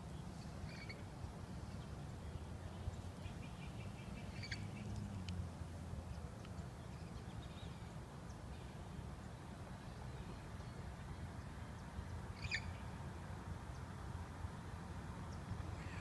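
Birds calling: a few short, high calls scattered over a steady low rumble, the loudest about twelve and a half seconds in.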